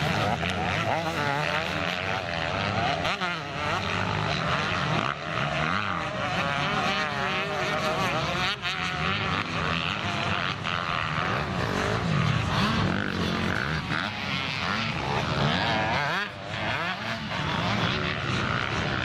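Several motocross bike engines running at once, their pitch rising and falling continually as the riders rev on and off the throttle.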